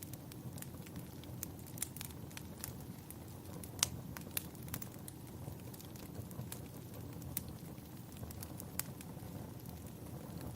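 Wood fire crackling in a fireplace: irregular sharp pops and snaps over a steady low rumble, the sharpest pop about four seconds in.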